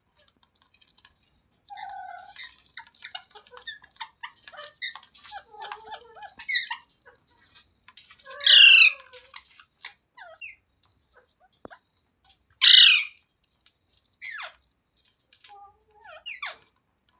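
Pet ringneck parrots (rose-ringed parakeets) chattering with soft chirps and short calls, broken by two loud, harsh screeches, one about halfway through and one about four seconds later.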